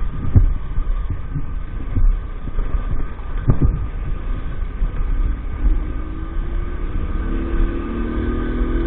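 A 50cc motorcycle engine running under a rider over a low rumble, with scattered thumps. About five seconds in, its pitch rises as it speeds up.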